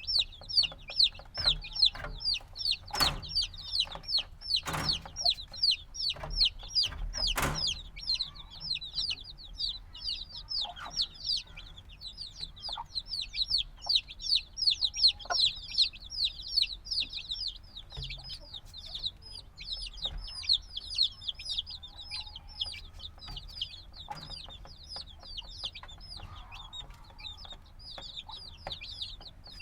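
A brood of chicks a few days old peeping constantly: a dense stream of high, short, downward-sliding peeps from many birds at once. A few sharp knocks stand out among the peeps in the first several seconds.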